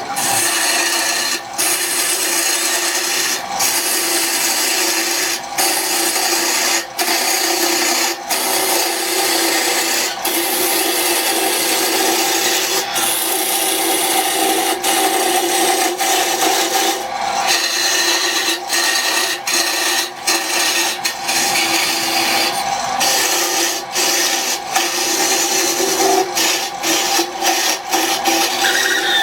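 A tool rubbing or rasping against wood in a steady, scratchy grind, broken by brief pauses every second or two as it lifts off and starts again.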